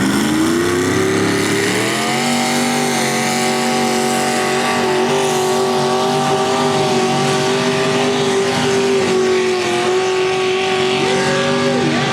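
Mini rod tractor puller's engine revving up over the first two seconds, then held at high, steady revs with slight wavers in pitch.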